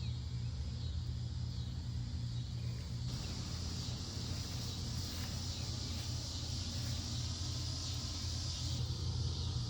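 Steady low rumble of a running car, with a faint high hiss over it.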